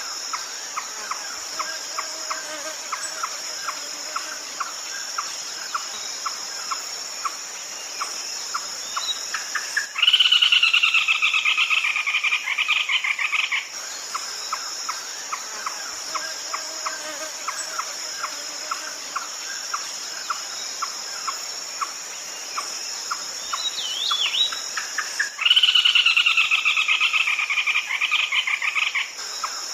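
Red-legged crake calling: a steady series of short notes about two a second, broken twice by a loud, fast-pulsed call that falls slightly in pitch over about three and a half seconds. A steady high insect drone runs underneath.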